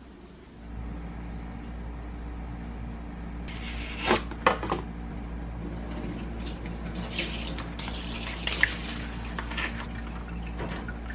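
A plastic tofu-noodle package being handled and opened over a stainless-steel kitchen sink: crinkling plastic with a few sharp clicks about four seconds in, and liquid from the pack dribbling into the sink, over a steady low hum.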